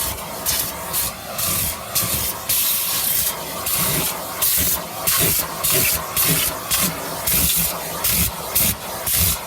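Vacuum cleaner running while its nozzle is worked over a car's floor, the rush of suction hiss cutting in and out in quick uneven strokes, a few times a second, over a steady motor hum.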